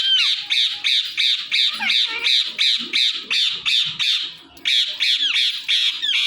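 A parrot squawking in a fast, harsh run of short repeated calls, about three a second, with a brief pause around four seconds in.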